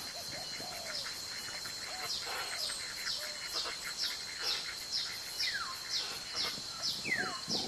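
A bird repeating a short, high, falling chirp about twice a second, over a steady high insect drone; twice in the second half a longer falling whistle sounds.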